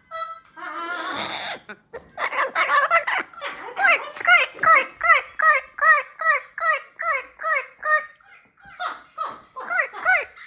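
Pet talking parrot calling in a rapid run of short, repeated calls, about two to three a second, each rising and falling in pitch, after a harsher squawk at the start.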